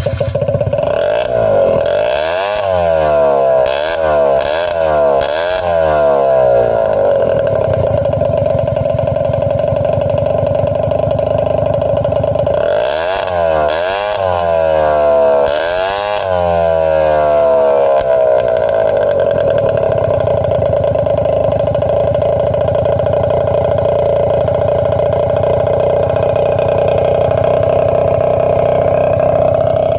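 Honda Super Dio ZX (AF28) scooter's 50 cc two-stroke engine, fitted with a SEASTYLE shotgun aftermarket muffler, just started. It is blipped up and down in a quick run of revs, settles to a steady idle, gets another short run of blips about halfway through, then idles steadily to the end.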